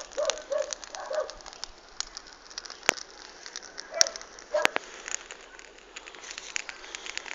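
Outdoor bonfire crackling, with irregular sharp pops from the burning wood; a few louder snaps come about three and four and a half seconds in.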